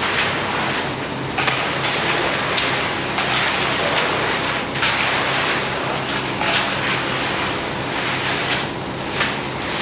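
Heavy machinery running steadily during a concrete pour, with a constant engine hum and irregular rushes of noise every second or two, likely concrete sliding and being worked.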